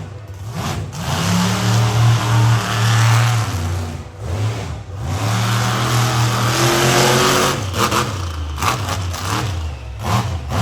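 Monster truck engine revving hard: two long full-throttle pulls with a brief drop between them, then a string of short throttle blips near the end.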